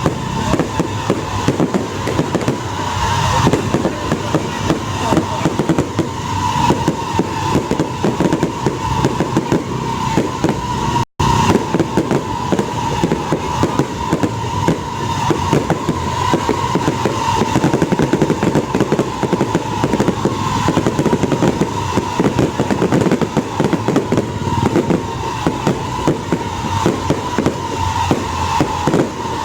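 Fireworks display going off in a dense, continuous barrage of bangs and crackles, broken by a momentary silent dropout about eleven seconds in.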